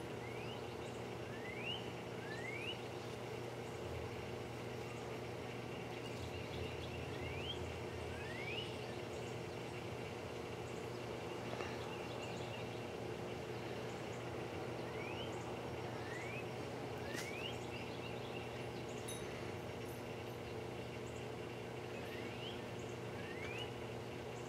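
A bird's short rising whistled calls, mostly in pairs about a second apart, repeated every few seconds over a steady low background hum.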